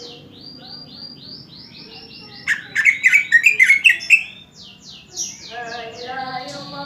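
Greater green leafbird (cucak ijo) singing: a fast run of repeated downward-sweeping whistles, broken in the middle by a loud burst of scratchy chattering notes, then the sweeping whistles again.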